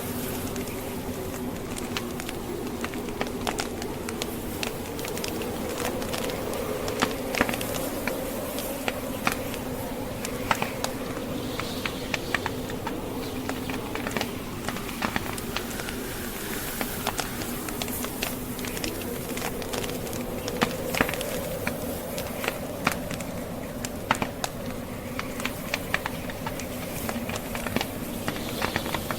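Burning logs in a fireplace crackling, with many scattered sharp pops, over blizzard wind blowing with a steady low drone that wavers slowly in pitch.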